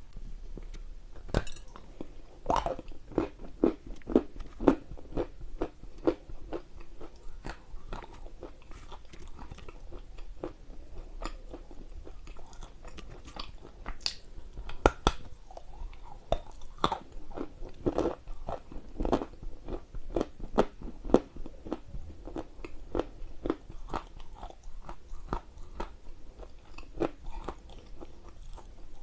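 A person biting and chewing lumps of Ural edible clay close to the microphone: a run of irregular dry crunches, with a few louder bites among them.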